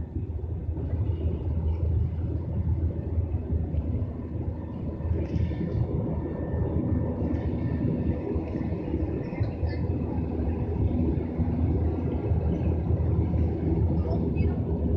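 Steady low drone of an airliner cabin in flight: engine and airflow noise heard from inside the plane.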